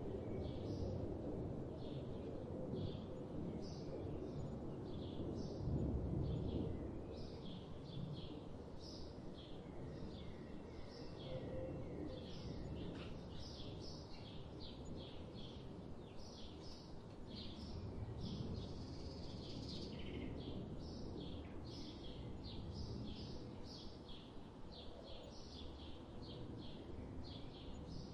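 Forest birds chirping: many short, high chirps, several a second, over a low, steady rumble of background noise.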